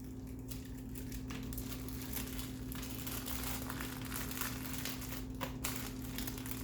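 Close-up chewing of a seaweed-wrapped rice roll (kimbap): soft, irregular mouth clicks and smacks over a steady low hum.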